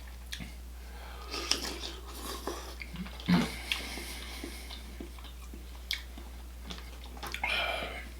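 Close-up eating sounds of mussels in garlic butter sauce: wet chewing and smacking with scattered short clicks, the loudest about three seconds in and a longer wet burst near the end.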